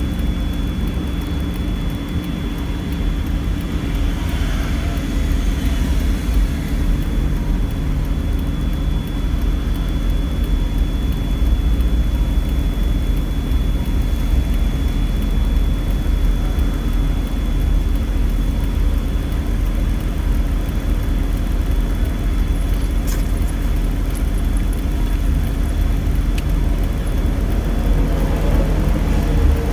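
Daihatsu Esse's 660 cc three-cylinder engine running, a steady low drone with a thin, steady high-pitched tone over it, recorded as an abnormal noise from the car.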